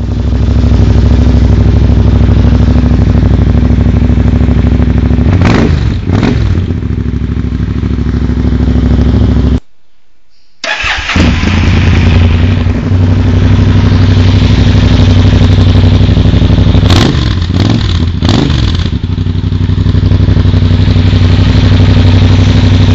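Yamaha TDM 900's parallel-twin engine idling through a LeoVince aftermarket silencer and blipped twice, quickly rising and falling. After a brief break about ten seconds in it idles again and is blipped twice more near the end.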